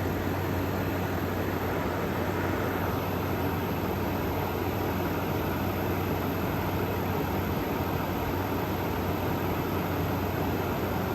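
Frigidaire Gallery GHWQ103WC1 10,000 BTU dual inverter air conditioner running steadily: an even rush of air from its fan over a constant low hum, blowing ice-cold air.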